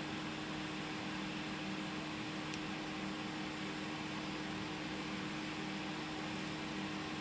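Hot-air rework station blowing a steady hiss with a constant low fan hum, heating the board to desolder small capacitors.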